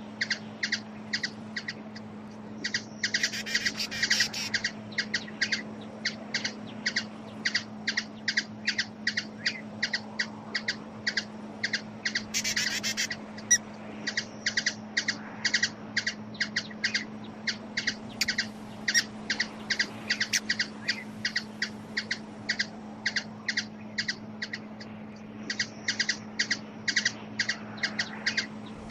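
Hummingbird giving sharp, high chip calls, repeated about two to three times a second, with two brief bursts of rapid chattering. A steady low hum runs underneath.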